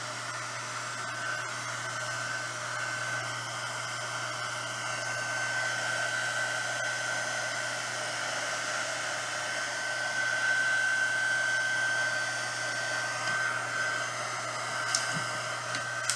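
Handheld heat gun blowing steadily with a high whine, switched off suddenly at the end.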